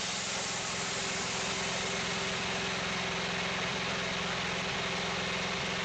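Wood-Mizer portable sawmill running steadily, its engine making an even drone under a dense hiss.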